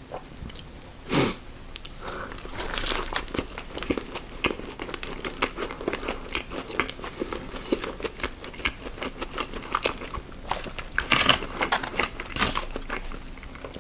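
Close-miked eating: a person biting and chewing fast food, with many small wet mouth clicks and crunches and a few louder bites about a second in and again near the end.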